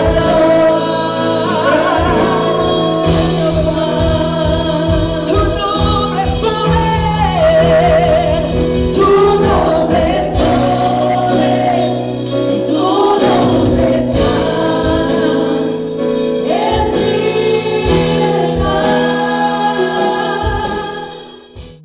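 Gospel worship song sung by a singer and choir with a band, over a steady drum beat, fading out near the end.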